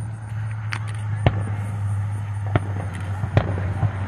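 Aerial firework shells bursting: about five sharp bangs at uneven spacing over a few seconds, over a steady low hum.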